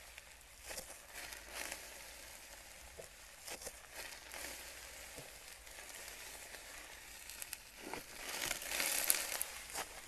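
Slime being squeezed and worked by hand, with crackles and small sharp pops, growing into a louder stretch of dense crackling near the end.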